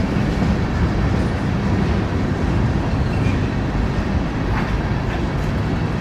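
Train running by: a steady low rumble, with a few faint clicks about four and a half to five seconds in.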